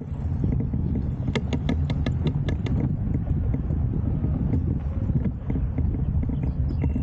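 Wind rumbling on the microphone of a moving bicycle, with a quick run of about eight sharp clicks a little over a second in.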